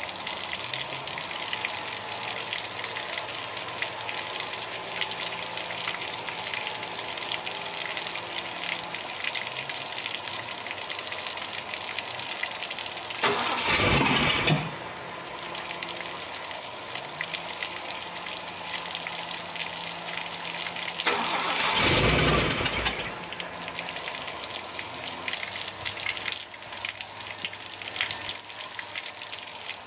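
MGC's freshly rebuilt 2.9-litre straight-six, fitted with triple Weber carburettors, in two brief attempts to start it: a short one about halfway through and a longer one about three-quarters of the way in. A steady hiss of water from a hose filling the cooling system runs underneath.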